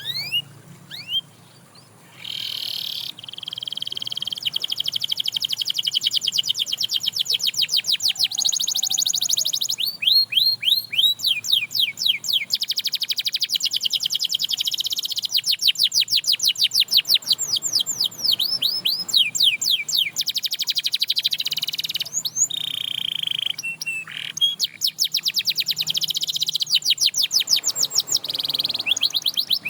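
Domestic canary singing a long song of fast trills, each a rapid run of short rising notes, with a few held whistled notes between them and the phrase changing every few seconds. It starts with a few scattered chirps before the full song sets in about two seconds in.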